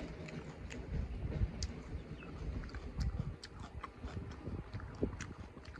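Close-up chewing and mouth sounds of someone eating chicken curry and rice: irregular small wet clicks over a low rumble.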